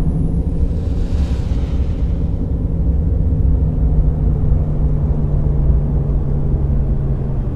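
Scania K420 double-decker coach's diesel engine running with a steady low drone, with a brief hiss about a second in.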